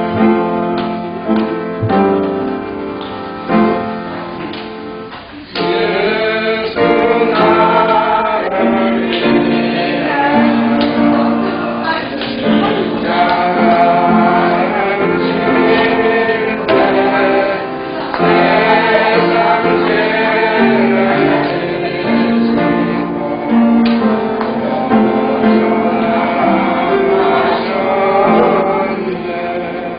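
Church praise music: a choir of men's and women's voices singing a gospel hymn with instrumental accompaniment, getting louder about five seconds in.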